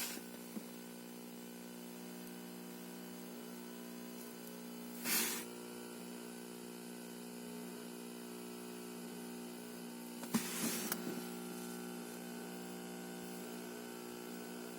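Car audio system putting out a steady electronic buzzing hum made of several fixed tones, broken by short bursts of crackle about five seconds in and again around ten to eleven seconds: digital interference noise from a faulty Junsun Android head unit in a Honda Accord.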